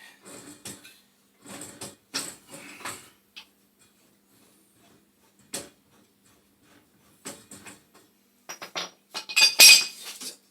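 Metal tools and gas-pipe fittings clinking and knocking as a fitting is worked off a boiler's gas line: short scattered clanks, with a quiet stretch midway and the loudest cluster near the end.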